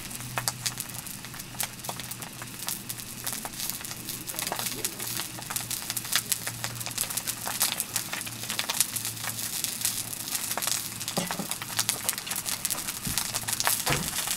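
Thick fried tofu (atsuage) frying in oil in a pan on a portable gas stove: a steady sizzle with dense spitting crackles, getting a little louder near the end as tongs are put to it.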